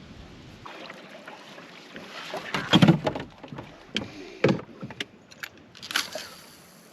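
Canoe being paddled: a handful of paddle strokes splashing and knocking against the hull, the loudest about three seconds in.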